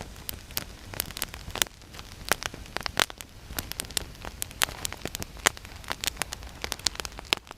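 Campfire of damp deadwood crackling, with many sharp irregular pops and snaps over a steady hiss.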